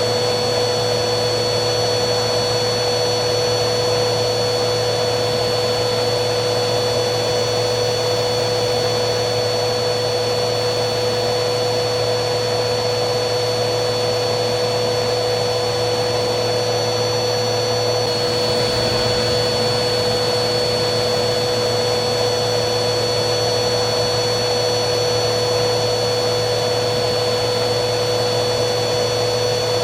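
Vacuum cleaner running steadily: a continuous rush of air with a motor hum and a high, steady whine over it.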